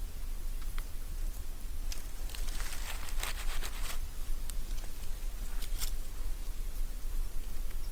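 Irregular rustling and crackling over a steady low rumble, densest about two to three and a half seconds in.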